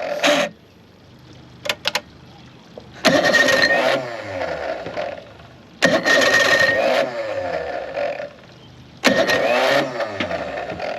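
An old Chrysler outboard motor is cranked over in three long bursts of two to three seconds each, with the choke pulled out, and does not catch. It is failing to start, which the owner thinks may be from too little fuel.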